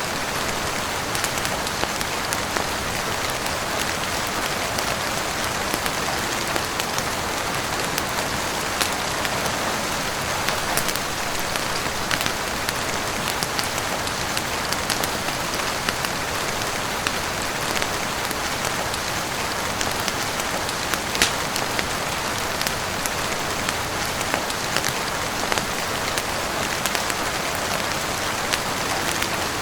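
Steady heavy rain on a roof and windows: a dense, even hiss with many scattered sharp ticks and pops throughout, one louder tick about 21 seconds in.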